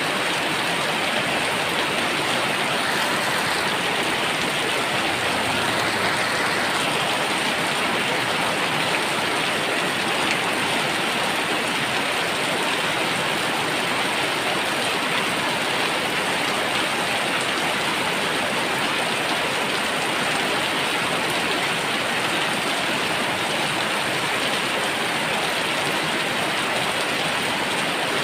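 Heavy rain falling steadily: a loud, even hiss of rain on the ground.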